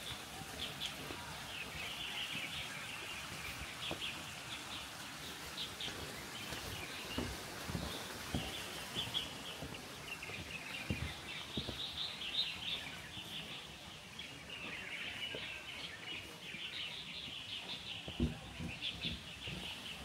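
Small birds chirping and twittering continuously over a steady outdoor background noise, with a few dull low thumps, the sharpest near the end.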